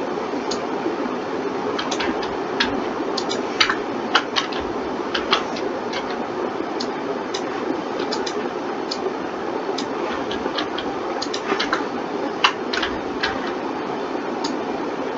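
Irregular clicks of a computer mouse and keyboard, sometimes several in quick succession, over a steady background hiss.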